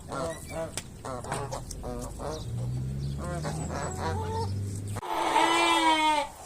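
Sheep bleating: a run of short animal calls, then one long, loud bleat about five seconds in. A low steady hum lies under the first part.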